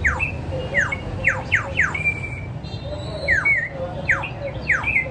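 A series of high, bird-like whistled calls, each sliding quickly down in pitch, some with a short upward hook, about a dozen in all, over a steady low rumble.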